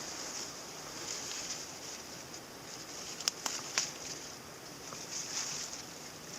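Steady rushing of a small stream, swelling and fading, with a few sharp clicks about three and a half seconds in.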